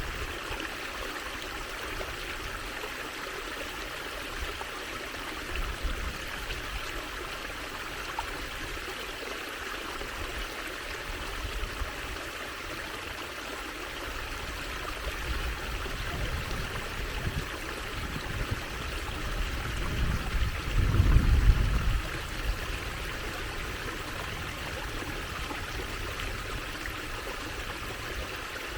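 Water trickling and running steadily. A low rumble swells in briefly a few times, loudest about two thirds of the way through.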